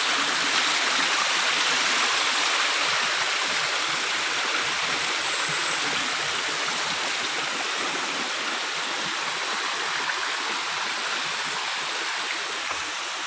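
Steady rush of running water, slowly growing a little quieter toward the end.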